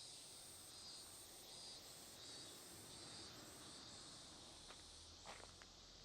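Faint chorus of insects chirping in even, repeating pulses, with a few soft clicks about five seconds in.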